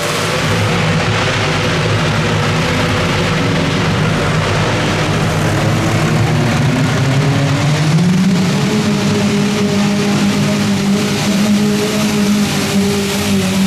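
Modified pulling garden tractor engine running hard at high revs, its pitch climbing about seven seconds in and holding higher to the end.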